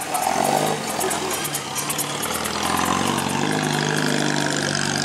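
Old Datsun taxi's small four-cylinder petrol engine running steadily at low revs as the car drives slowly past.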